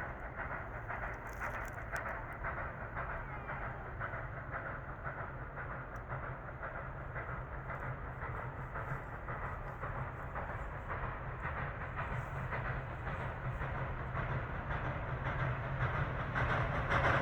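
Steam locomotive working at full throttle, a steady dense run of rapid exhaust beats with rail clatter that grows louder over the last few seconds as it comes closer.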